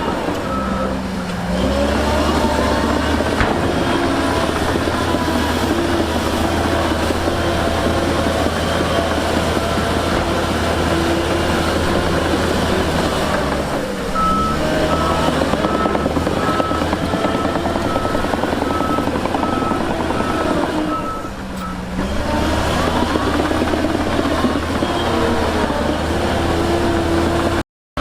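Heavy earthmoving machine's diesel engine working under load, its pitch rising and falling as it revs. A reversing alarm beeps in a steady series, clearest in the middle stretch. The sound cuts out briefly near the end.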